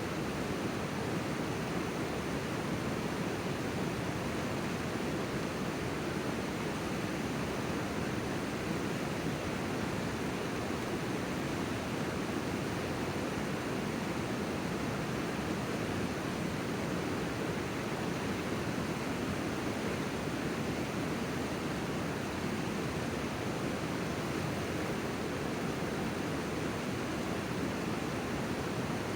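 Steady rush of flowing river water, an even noise with no changes.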